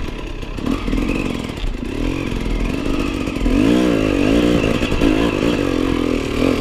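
Enduro motorcycle engine revving up and down repeatedly as the rear tyre spins without grip on a slope; the pitch rises and falls several times, loudest around the middle.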